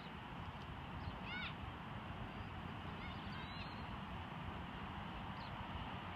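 Steady outdoor background noise with a short run of bird calls about a second in and a few fainter chirps later.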